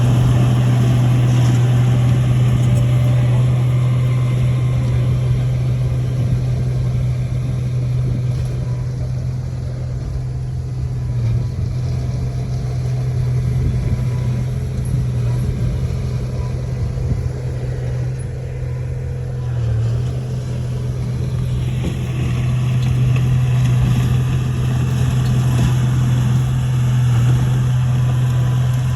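Heavy earthmoving machine's diesel engine running steadily with a strong low hum, a little quieter in the middle stretch.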